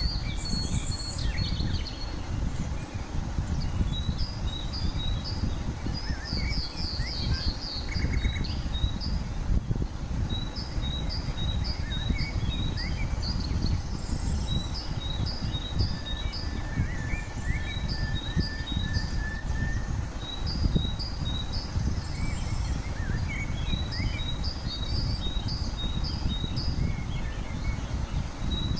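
Birds chirping in runs of short, quickly repeated high notes, over a steady low rumbling background noise.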